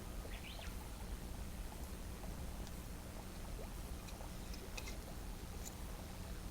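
Faint wood campfire crackling: sparse small pops and ticks over a low steady rumble.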